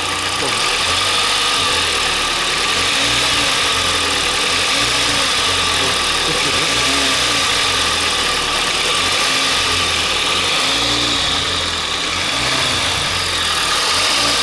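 Kia/Hyundai 2.0-litre petrol engine running, its pitch rising and falling several times as the throttle is blipped lightly. It knocks, which the owners suspect comes from the timing chain or a variable valve timing phaser.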